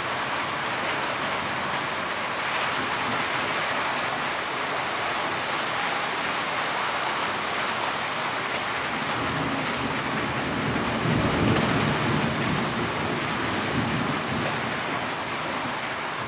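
Heavy rain falling steadily, with a low rumble that swells and fades around ten seconds in.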